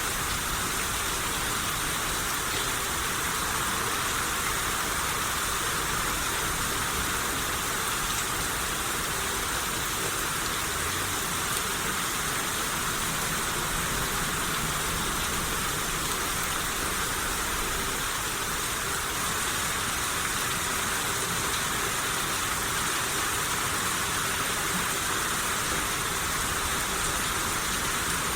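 Steady rain shower, an even hiss with no breaks.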